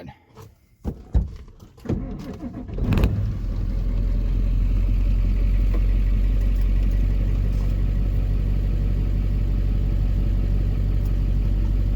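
A few knocks and clicks, then the Ford F-350's 7.3-litre Power Stroke turbodiesel V8 cranks and fires about three seconds in and settles into a steady idle.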